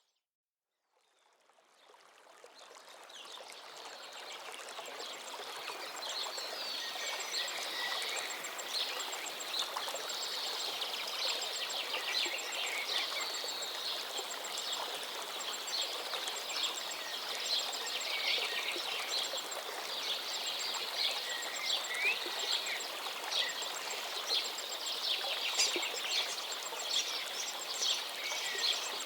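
Many birds chirping and singing over the steady rush of a flowing river, fading in from silence over the first few seconds.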